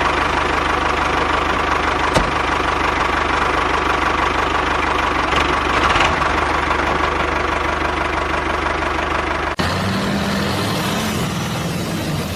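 An engine idling steadily with an even, rapid beat. About nine and a half seconds in it cuts abruptly to a different engine sound.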